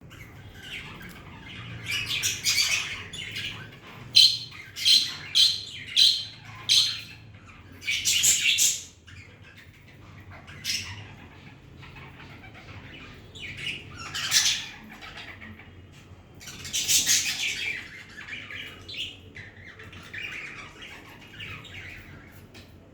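Budgerigars chirping and squawking in scattered bursts, with a quick run of five short, sharp calls about four seconds in.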